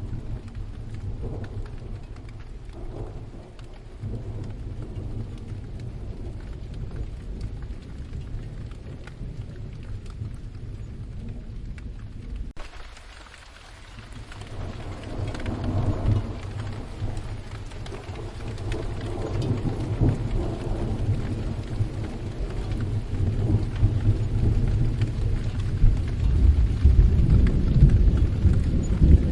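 Rain falling through a thunderstorm, with thunder rumbling low underneath. The sound changes abruptly about twelve seconds in; after that the thunder swells and rolls on, growing louder toward the end.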